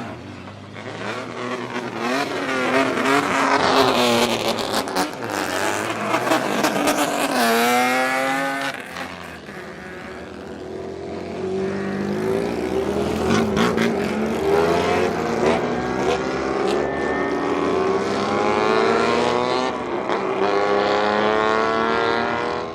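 Modified vehicle engine with a loud exhaust revving hard, its pitch rising and falling several times. There is a quick sharp rise in pitch about a third of the way in, then a long steady climb through the second half, with scattered sharp pops.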